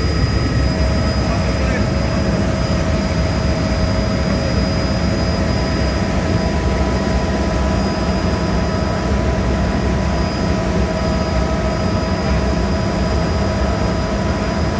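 Helicopter heard from inside the cabin in flight: a steady loud rumble of rotor and engine with a constant high turbine whine over it.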